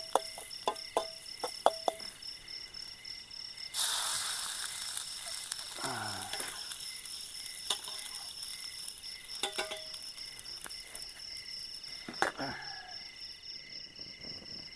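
Metal spatula knocking against a wok in quick ringing taps, then a sudden loud sizzle about four seconds in as food hits the hot oil, the frying fading to a softer sizzle. Crickets trill steadily throughout.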